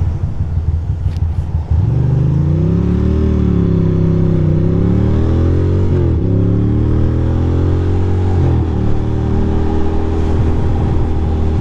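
2006 Ducati Monster 620's air-cooled V-twin engine pulling away from low revs and revving up and down as it accelerates, with gear changes about six and eight and a half seconds in. A sharp click comes just before it pulls away.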